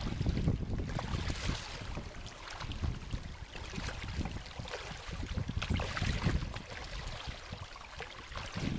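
Water splashing and sloshing around a kayak under way, with a few stronger splashes every couple of seconds, over wind rumbling on the microphone.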